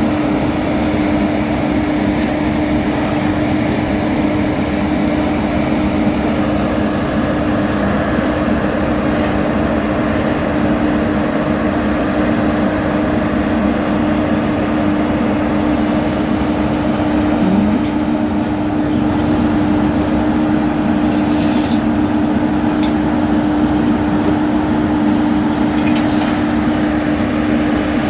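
Heavy road-construction machinery running steadily: a continuous diesel engine drone with a constant pitched hum over it.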